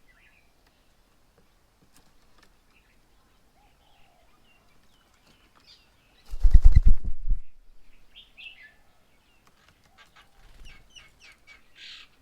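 A bird's wings flapping close by in a rapid run of beats lasting about a second, the loudest sound, just past the middle. Short high bird chirps and calls come before it and cluster near the end.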